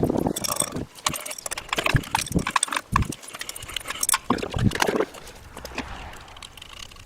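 Irregular clinks and knocks of metal parts and hand tools being handled while an e-bike hub motor is put back together, busiest for about five seconds and then quieter.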